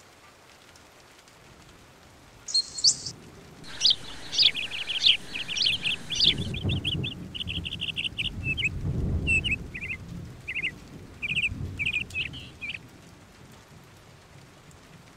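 Birds chirping in quick trills, with low rumbles of thunder underneath.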